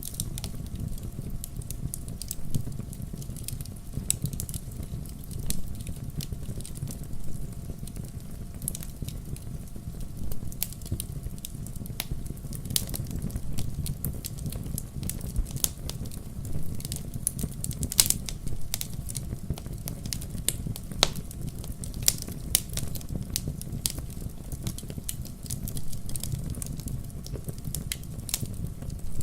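Wood fire in a fireplace crackling, with irregular sharp pops and snaps over a steady low rumble of the flames; the loudest snaps come about two-thirds of the way through.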